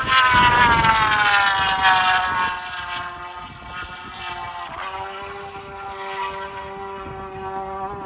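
Superbike racing motorcycle passing at full throttle, its high engine note dropping in pitch as it goes by. It then fades into a quieter, steadier note that steps down about five seconds in.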